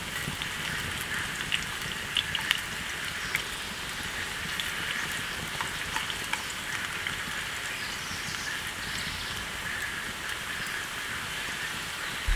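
Steady rain hissing, with scattered louder drops ticking sharply now and then.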